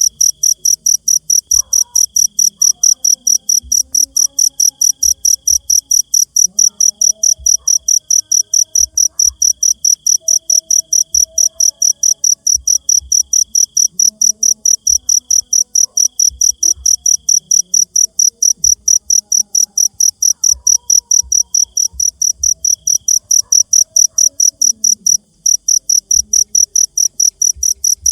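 Cricket chirping loudly and steadily, about four chirps a second, with a brief break once near the end. A fainter, lower insect trill comes and goes beneath it.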